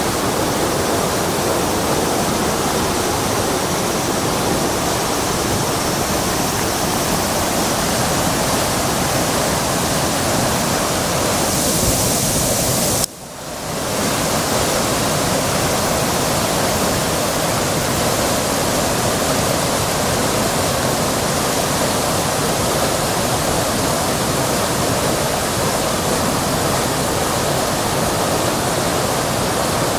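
River swollen by typhoon rain, rushing water as a loud, steady noise. About thirteen seconds in, the sound drops away abruptly for a moment and swells back within a second.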